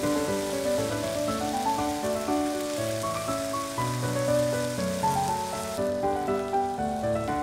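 Chicken tenders sizzling in hot oil in a frying pan, an even hiss that drops away about six seconds in, under background music with a slow melody.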